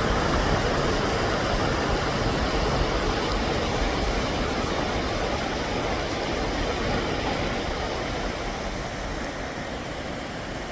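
A river running high after heavy rain and snow, making a steady rushing of water that eases slightly near the end.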